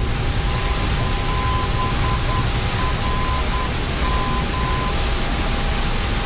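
Steady hiss of flight-deck noise in a Boeing 767 slowing on its landing rollout, with a faint steady tone and a faint on-off beeping tone under it.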